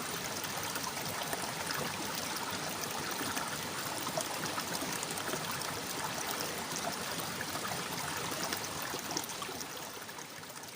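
Babbling running water, a steady dense rush with fine trickling crackle that starts to fade out near the end.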